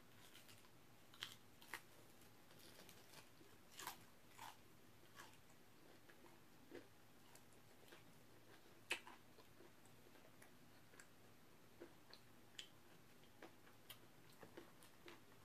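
Faint eating sounds of fried chicken being chewed and pulled apart by hand: scattered small clicks and crunches, irregular, with one a little louder about nine seconds in.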